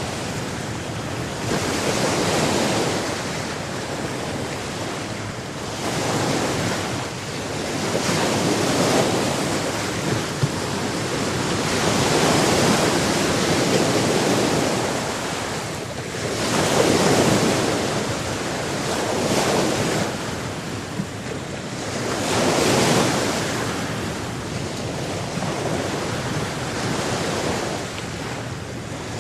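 Sea waves breaking and washing on a shore, swelling and falling back every few seconds, with some wind noise.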